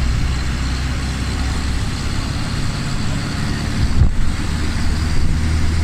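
Car engine and road noise heard from inside a moving car: a steady low hum whose pitch shifts about two seconds in, with a brief thump about four seconds in.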